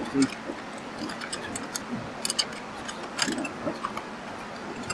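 Scattered, irregular light clicks and clinks of hand tools and metal engine parts being handled.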